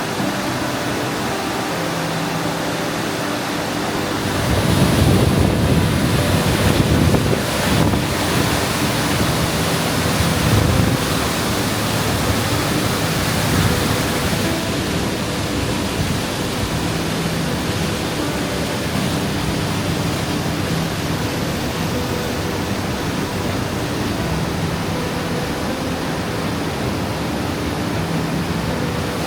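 Steady rushing of a mountain stream, with a heavier low rumble from about four to fourteen seconds in.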